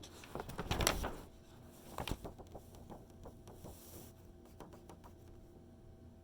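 A magazine page being turned: a papery rustle lasting about a second near the start, then a sharp tap about two seconds in and a few faint clicks of paper being handled.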